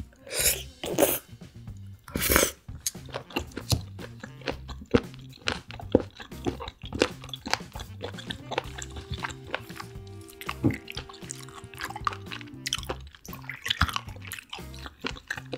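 Close-miked chewing of seafood (raw and steamed squid, sea cucumber), with dense wet mouth clicks and a few louder bites in the first three seconds, over soft background music.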